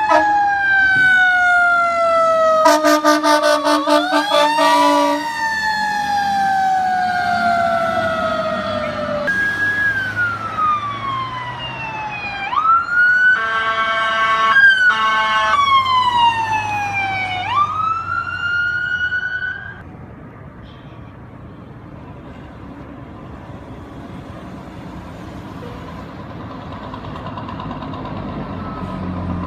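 Fire truck siren wailing in long sweeps, each rising quickly and falling slowly, with two blasts of a deep horn over it. About two-thirds of the way in the siren stops, leaving the lower, steady noise of the truck and traffic.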